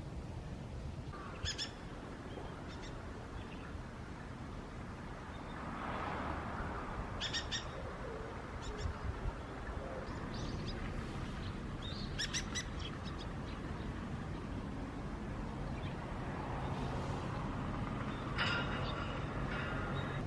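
Bird calls: short, high chirps come in brief clusters about every five seconds, four times, over a steady low background rumble.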